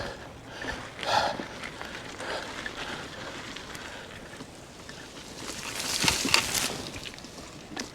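Electric mountain bike rolling along a dirt bush trail: uneven tyre and trail noise, with a louder rush of noise about six seconds in.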